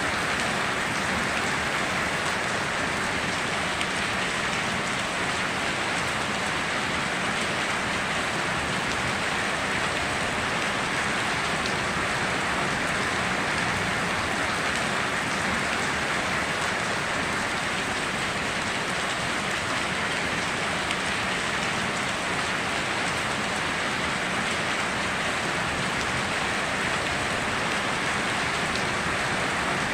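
Steady heavy rain falling on foliage and ground, an even hiss of countless drops with no thunder or lulls.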